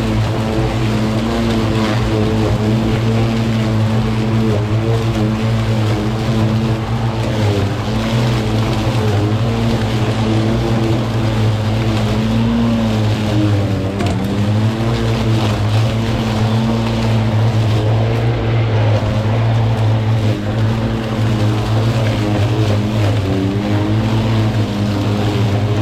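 Parkside Performance PPRMA 40-Li A1 cordless lawn mower running with its blade spinning, a steady electric hum whose pitch dips briefly about halfway through and again near the end.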